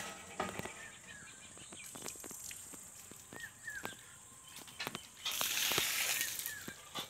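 Outdoor rural ambience: a small bird gives short chirps several times, over a faint steady high insect buzz. There are scattered clicks of the phone being handled, and past the middle a loud rushing hiss lasts for about two seconds.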